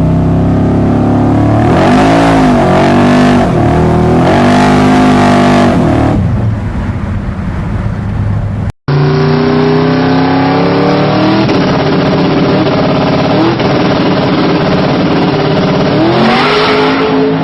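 Eight-stack fuel-injected Hemi V8 being revved several times, its pitch rising and falling with each blip. After a sudden cut about nine seconds in, another engine runs steadily with a few short throttle blips.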